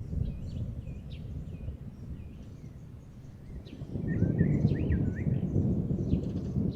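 Distant thunder rumbling low and long, swelling louder about four seconds in, while small birds chirp and give a short warbling phrase over it.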